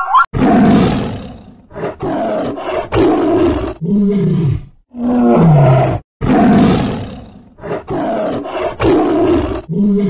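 Lion roaring: a series of loud, raspy roars about a second long each with short pauses between, several of them ending in a lower, falling grunt.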